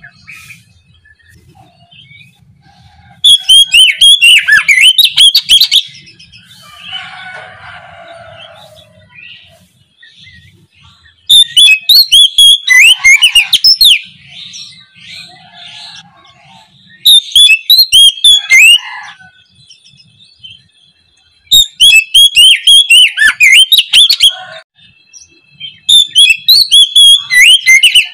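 Oriental magpie-robin (kacer) singing in five loud bursts of fast, whistled phrases a few seconds apart, with fainter chirping between.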